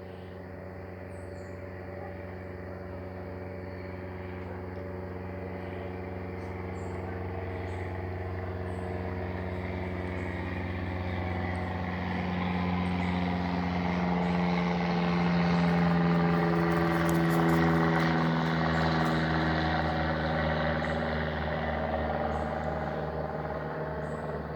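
Light aircraft piston engine and propeller droning on approach to land, growing louder as it nears and passes overhead about two-thirds of the way through, its pitch dropping a little as it goes by, then starting to fade.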